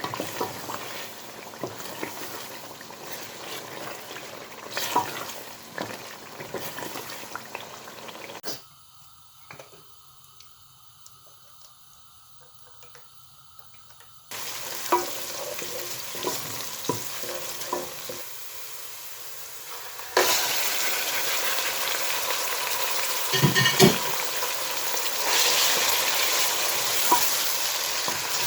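Food frying in a pan, with sizzling and the clicks and scrapes of stirring and utensils. It drops to a quiet stretch about a third of the way through, then the sizzle turns much louder and steadier near the end.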